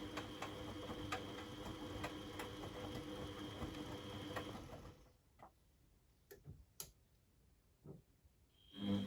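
Beko WMD 46160 washing machine running on a boil wash, giving a steady hum with light ticking that stops about five seconds in. A few sharp clicks sound in the quiet pause, and the machine starts up again just before the end.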